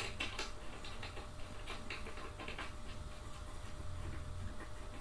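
Faint, scattered clicks and light taps of metal hardware being handled while chair parts are lined up and bolted together with an Allen key.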